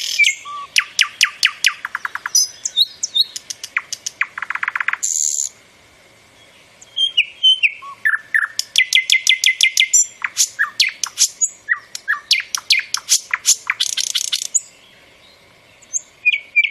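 Bird calling in rapid trains of sharp, high chirps, about ten a second, broken by a few short hissy bursts. There is a brief pause about six seconds in.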